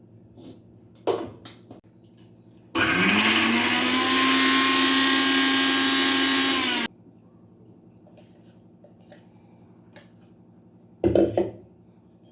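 Electric blender motor switched on for about four seconds: it spins up quickly with a rising whine, runs steadily, then cuts off sharply. Short knocks come before and after it.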